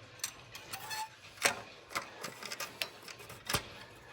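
Irregular light clicks and knocks of hard objects being handled, with two louder knocks about one and a half and three and a half seconds in.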